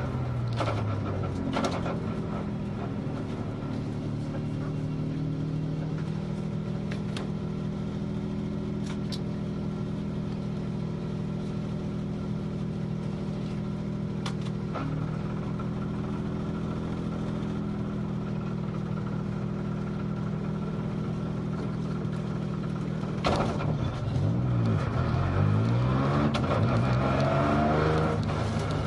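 Rally car engine heard from inside the cockpit. The revs drop in the first couple of seconds and then hold steady for a long stretch. About 23 seconds in it gets louder and the revs rise and fall several times in quick succession as the car accelerates through the gears.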